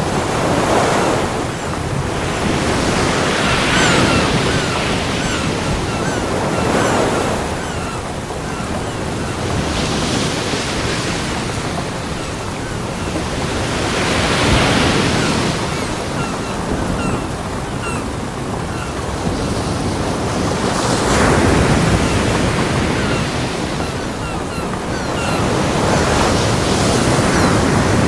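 Ocean waves breaking on a beach: a steady wash of surf that swells and recedes every three to four seconds.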